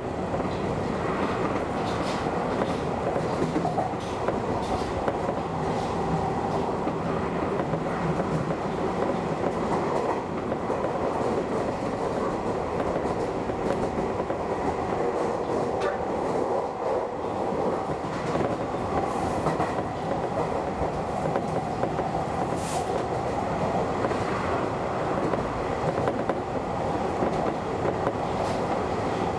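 Keio Inokashira Line express train running at speed, heard from the cab: a steady rumble of wheels on rail with a few faint clicks.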